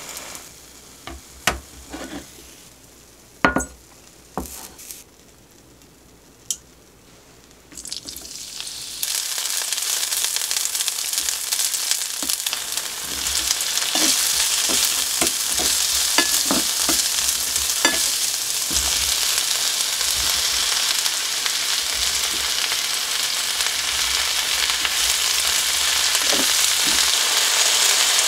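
A few light taps of a wooden spatula against a rectangular omelette pan. About nine seconds in, loud sizzling begins as sliced onion and green pepper are stir-fried in a hot frying pan with a wooden spatula, with occasional knocks and scrapes. The sizzle grows louder around thirteen seconds in as more ingredients go into the pan.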